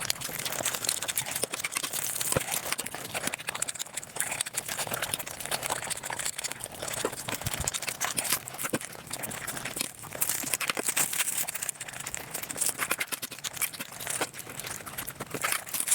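Eating and chewing sounds played back at five times speed, turning the chewing into a dense, rapid crackle of clicks.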